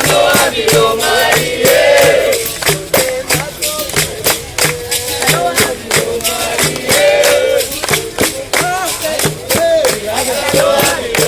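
Capoeira music: berimbau and percussion keeping a steady beat while a group sings together.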